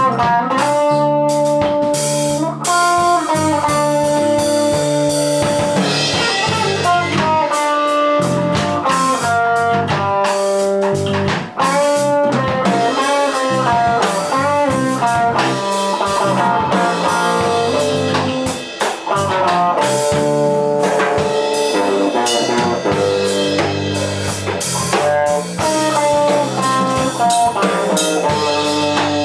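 Blues band playing live, with bass and drums under a lead line of bending, sliding notes.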